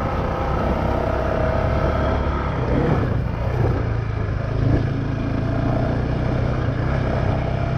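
Honda CRF450X's single-cylinder four-stroke engine running as the dirt bike is ridden, its note changing about three seconds in to a steadier, lower tone. A buzzing rattle comes from the bike, which the rider thinks might just be the chain.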